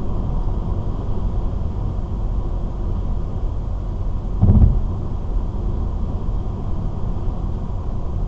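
Steady low road and engine rumble heard inside a car cruising at highway speed, with one brief low thump about halfway through.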